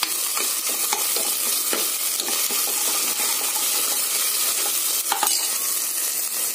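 Chopped onions and tomatoes frying in oil in an aluminium pressure-cooker pot over a low flame: a steady sizzle, with a steel ladle stirring and now and then scraping and knocking the bottom of the pot, a few louder scrapes about five seconds in.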